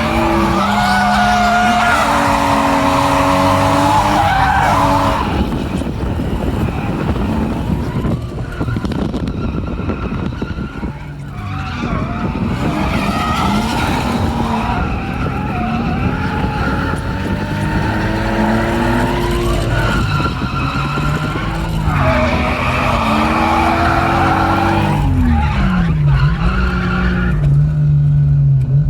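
Drift car's engine revving up and down again and again, with tyres skidding, heard from inside the car during a drift run.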